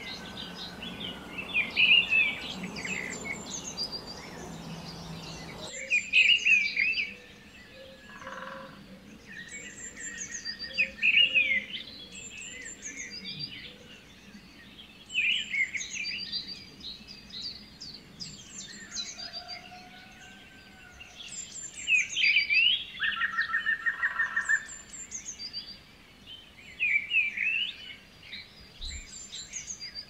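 Songbirds chirping and singing in short, repeated high phrases, with a few lower, rapid pulsed trills mixed in.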